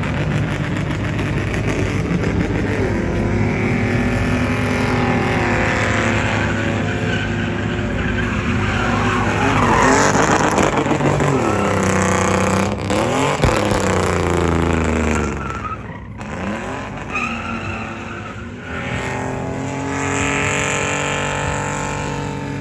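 A car or truck engine revving hard, its pitch climbing and falling several times and easing off briefly about sixteen seconds in, with tyre squeal.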